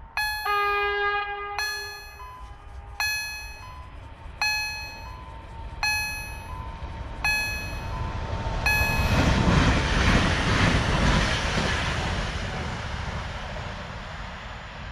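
Level-crossing warning bell striking about every second and a half, with a brief horn note near the start. About nine seconds in, an approaching electric train's passing rumble swells over the bell and then fades away.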